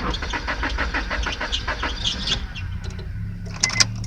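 1999 Honda Accord four-cylinder engine cranking on the starter in an even rhythm for about two and a half seconds without catching, then a low steady hum remains. It is a no-start: the engine turns over but won't fire.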